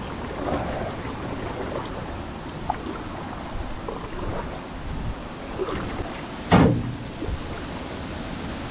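Aluminium Grumman 129 solo canoe being paddled through a shallow, rocky riffle: water rushing and splashing around the hull, with one sharp, loud knock on the hull about two-thirds of the way through.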